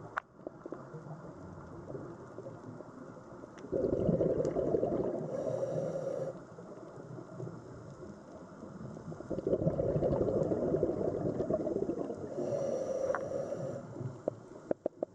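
Sea sound: a low rushing wash that swells twice, each swell lasting several seconds, with a few sharp clicks near the end.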